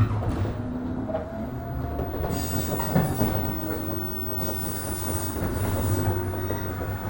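Interior running noise of a JR 103 series 1500 electric train: a steady low rumble of motors and wheels on the rail, with knocks from rail joints near the start and about three seconds in. A high-pitched wheel squeal comes in about two seconds in and again near the end.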